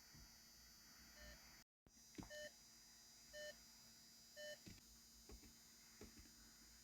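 Faint electronic beeps from the car's interior electronics: four short, even-pitched beeps about a second apart, with a few light clicks in between.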